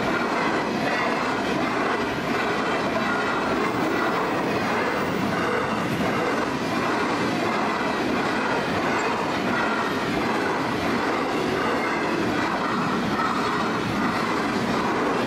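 Container wagons of a long freight train rolling past at speed: a steady rush and rumble of steel wheels running on the rails.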